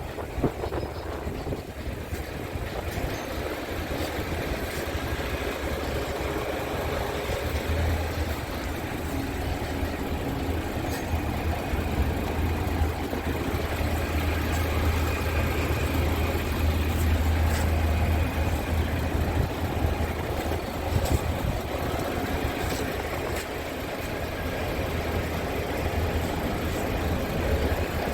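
Scania R450's 13-litre six-cylinder diesel engine idling steadily, a low hum that grows a little stronger through the middle.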